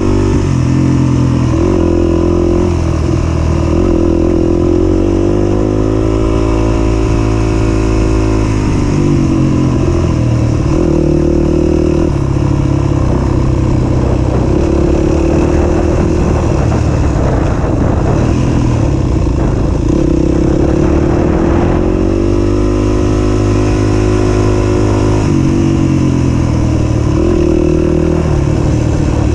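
Single-cylinder four-stroke 250 cc dirt bike engine running continuously while riding, its pitch climbing and dropping as the throttle is opened and closed, with longer revving climbs about a quarter of the way in and again later.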